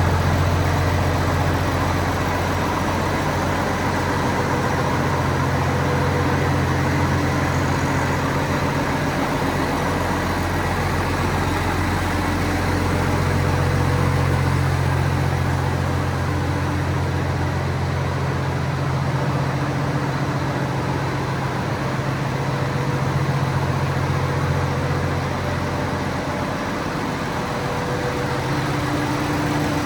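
1988 Case IH 956XL tractor's six-cylinder diesel engine idling steadily.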